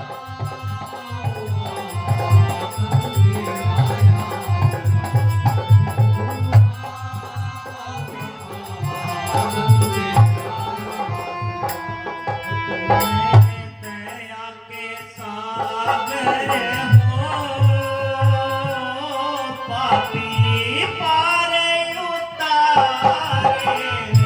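Devotional shabad music: a hand drum keeps a steady low beat under held melodic tones. A voice sings in the second half, with a short lull in the drumming shortly before.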